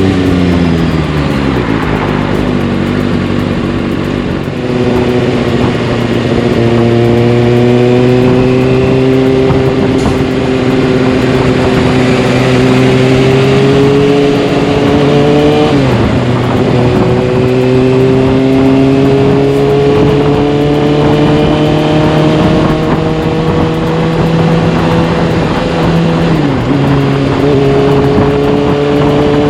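Kawasaki Ninja ZX-6R inline-four engine heard through a carbon fiber Delkevic exhaust while riding. The revs drop over the first couple of seconds, then climb slowly under load. The throttle is briefly chopped and reopened about halfway through and again near the end.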